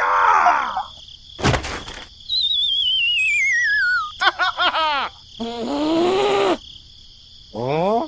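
Cartoon sound effects: a short squeal, a thump, a long falling wobbly whistle, a quick run of springy bounces and a comic groan, then a fast rising whistle near the end, over a steady high chirring of crickets.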